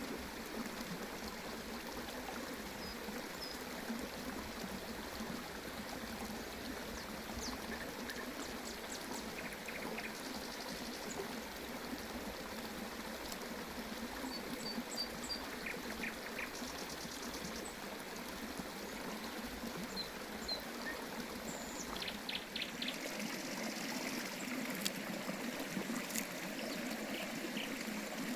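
Water of a small stream running steadily, with scattered short bird chirps over it.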